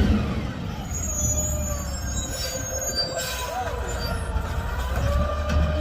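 Garbage truck working: its diesel engine rumbles low while high metallic squealing and whining tones waver and glide above it.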